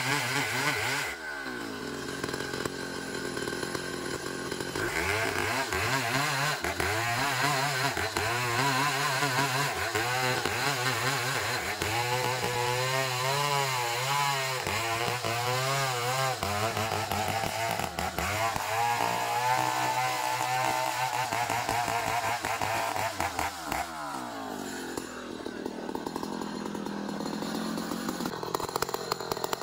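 Chainsaw cutting a long ulin (Borneo ironwood) log, its engine pitch rising and wavering as the chain works through the hard wood. The engine drops back about a second in, picks up again, and falls away toward idle near the end.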